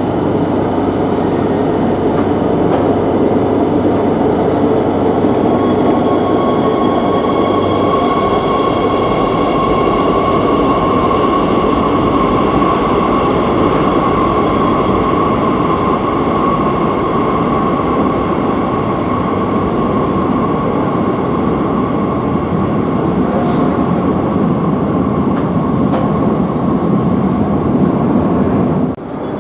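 Madrid Metro series 8000 train running through a tunnel, heard from inside the car: a loud steady rumble of wheels on rail with a steady high whine over it. The sound drops off suddenly just before the end.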